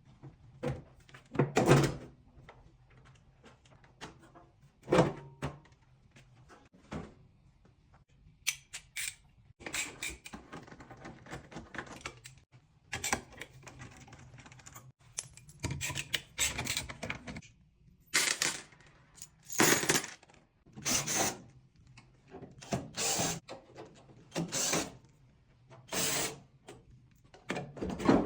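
Irregular metal knocks and clinks of hand tools at work on a washing machine during a bearing replacement, with stretches of scraping or rubbing in between.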